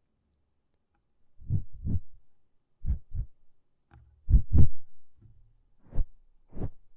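Ear-cleaning sounds on an ASMR microphone's ear: a series of muffled, low thumps and rubs, mostly in close pairs.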